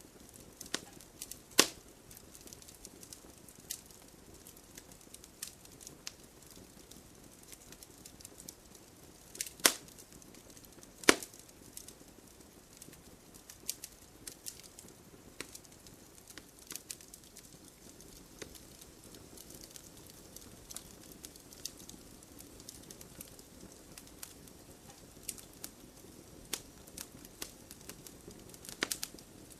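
Wood campfire burning: scattered sharp crackles and pops over a low steady hiss, with a few louder snaps, three in the first dozen seconds and one near the end.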